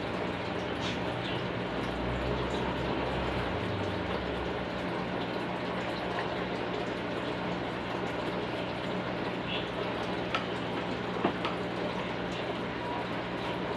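Steady running-water noise over a low electric hum, with a few faint clicks.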